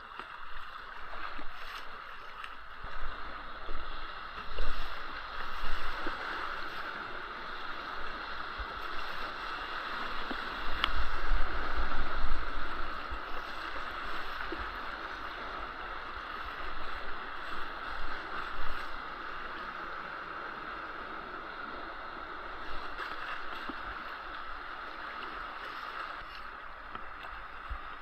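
Steady rush of water around a moving kayak, with a few louder low rumbles, the strongest about eleven to thirteen seconds in.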